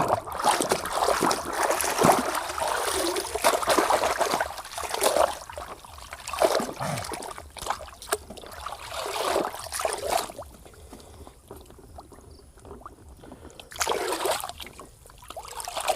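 Water splashing and trickling as a muddy toy is washed by hand. It is heavier for the first ten seconds or so, then quieter, with one short splash near the end.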